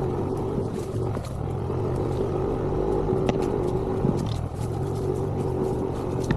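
Motor vehicle engine running steadily under load on a rough track, with scattered knocks and rattles from the ride over the uneven surface.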